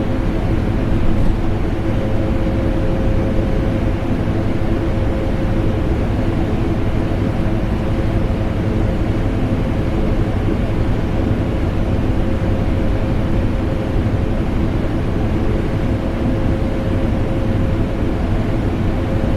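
Vacuum cleaner motor and air conditioner running together as a steady, unchanging drone, with a constant low tone over even rushing noise.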